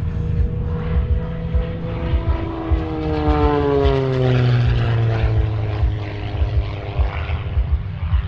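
Propeller aircraft flying past low, its engine note dropping sharply in pitch as it goes by about three to five seconds in, where it is loudest.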